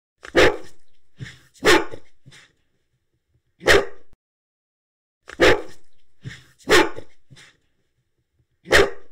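Dog barking six times, single loud barks one to two seconds apart, with dead silence between them; the same group of three barks comes twice.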